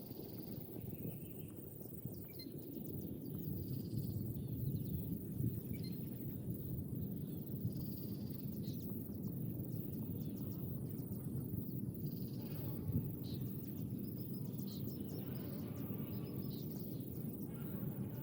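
Outdoor ambience: scattered short, high bird chirps and calls over a steady low rumble.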